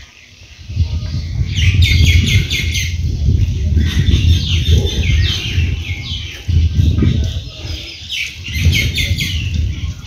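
Small birds chirping in quick series of short falling notes, over a loud, uneven low rumble.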